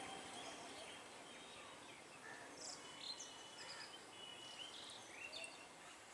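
Scattered short bird chirps over faint, steady outdoor background noise. The last of a train horn dies away at the very start.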